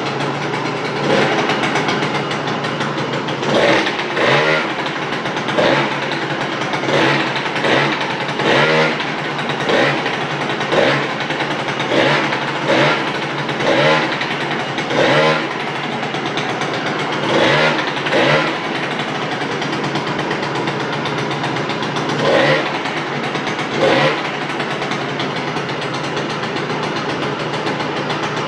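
SYM Jet 100 scooter engine through an aftermarket JCC exhaust, idling and given a string of short, sharp throttle blips, each a quick rise and fall in pitch. The blips come in irregular groups, then stop near the end, leaving a steady idle.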